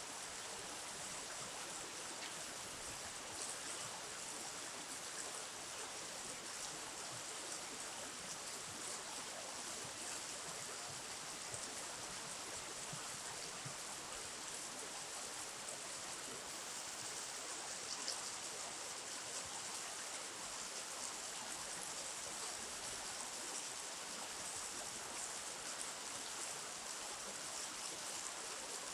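Flowing river water: a steady, even rushing hiss that does not change.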